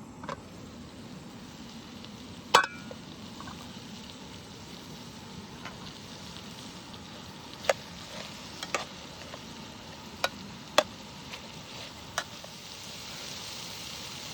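A metal utensil clinking sharply against a cooking pan half a dozen times, over a steady hiss.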